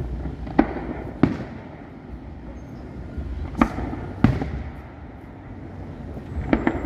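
Aerial fireworks bursting with sharp bangs: two about a second in, two more around the four-second mark, and a quick cluster of cracks near the end, over a low rumble.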